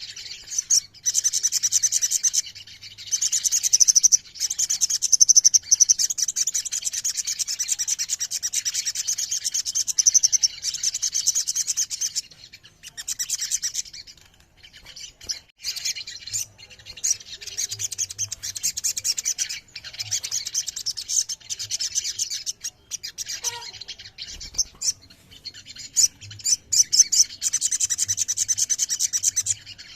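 Sogon (crimson sunbird) singing: long, rapid, high-pitched rolling trills that run for several seconds at a time, broken by short pauses.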